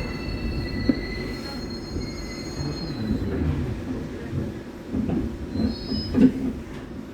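Hyundai Rotem IGBT-inverter metro train braking into a station. The high steady inverter and wheel tones fade out over the first few seconds, leaving a low running rumble. A few clunks follow as the train comes to a stop.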